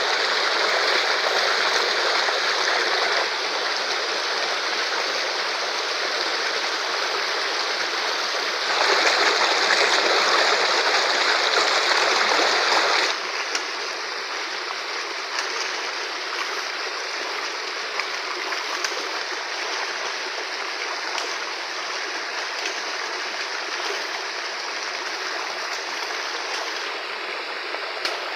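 Fast-flowing river rushing: a steady, loud noise of running water that grows louder for a few seconds a third of the way in, then drops back to a lower, even level.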